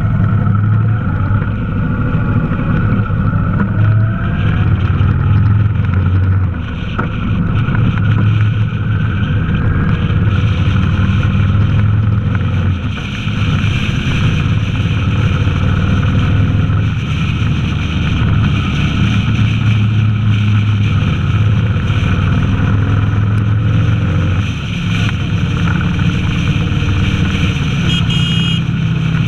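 Honda VTX 1300's V-twin engine running at road speed, heard from on the motorcycle, a steady low rumble that dips briefly three times.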